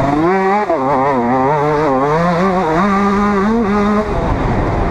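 Motocross bike engine heard on board, its pitch climbing and dropping with the throttle and stepping through gear changes, then falling away about four seconds in as the throttle is rolled off.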